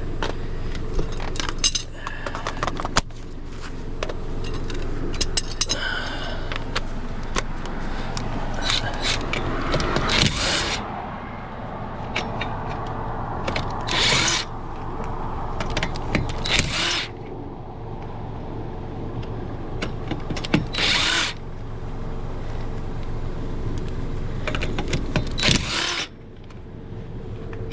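Impact wrench running in five short bursts, one lug nut after another, with clicks and knocks of tools and wheel parts in between, over a steady low hum.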